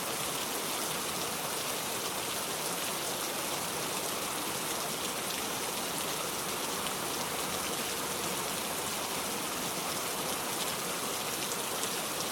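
Steady rain falling: an even hiss with fine patter of drops, unchanging throughout.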